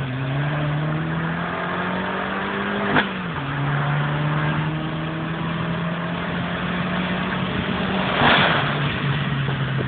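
Fiat 500 Abarth's turbocharged 1.4 four-cylinder with a Ragazzon aftermarket exhaust, pulling under acceleration: the engine note climbs, drops sharply with a short click at an upshift about three seconds in, then climbs slowly again. A brief whoosh is heard near the end.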